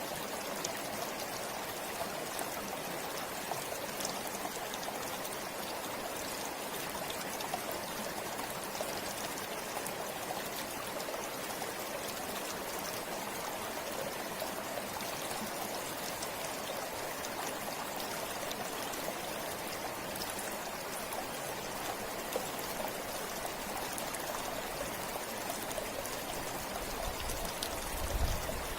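A forest river flowing steadily over rocks, a continuous rush of water with fine splashing and trickling. A brief low rumble comes near the end.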